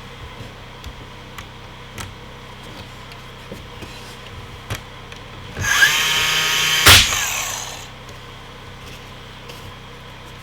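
A power tool's motor spins up, runs for about two seconds with a sharp knock partway through, and winds down, amid light taps and clicks of handling material.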